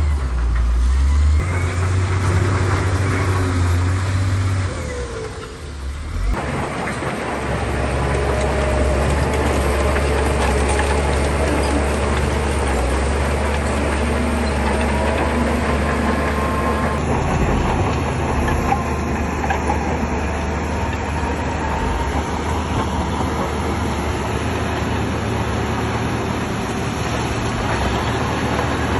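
Shantui crawler bulldozer working, its diesel engine running with a steady low drone under a noisy mechanical clatter. The sound changes abruptly a few times, at about a second and a half, about six seconds in, and about seventeen seconds in.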